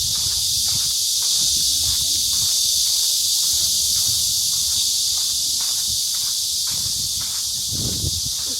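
Steady, high-pitched drone of a summer cicada chorus in the trees, with soft footsteps beneath it.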